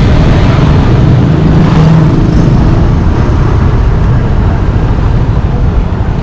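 Motorbike riding along a road: steady engine and road noise with a heavy low rumble.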